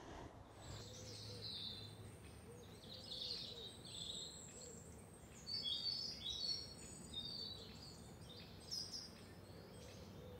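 Songbirds chirping and twittering in short scattered phrases, loudest and busiest about halfway through, over faint outdoor background noise.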